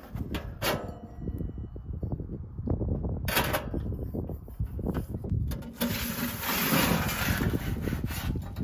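Unboxing and handling of a wood-burning stove: knocks and clicks of parts being moved, a short metallic ring under a second in, and a long rustling or scraping about six seconds in.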